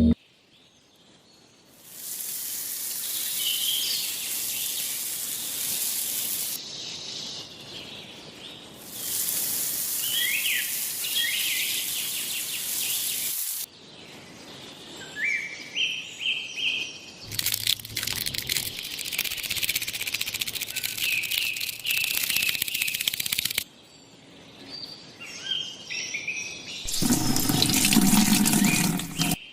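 Steady rushing noise in several separate stretches that start and stop abruptly, with birds chirping.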